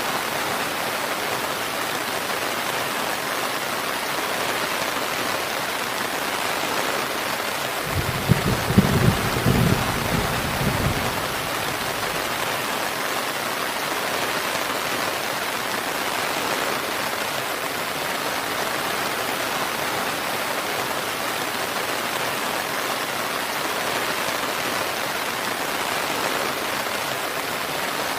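Steady rain falling, an even hiss of drops, with a short low rumble of thunder about eight seconds in that lasts around three seconds.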